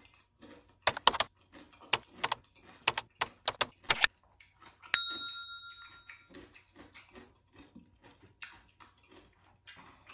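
Crisp crunches of a whole cucumber being bitten and chewed close to the microphone, a dozen or so sharp cracks over a few seconds. About five seconds in, a bright bell-like chime rings out and fades over a second or so.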